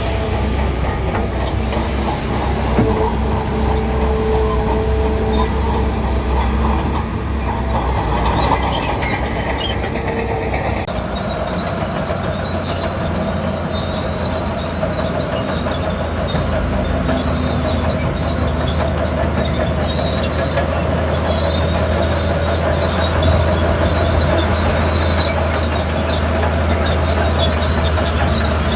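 Heavy diesel construction machinery running steadily with a deep hum and metallic clatter. The sound shifts about eleven seconds in, and a faint high-pitched tone joins it.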